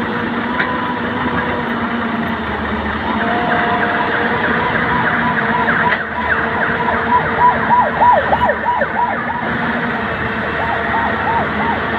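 Heavy diesel machinery running steadily under load, with a run of quick, repeated high squealing glides from about three seconds in, several a second.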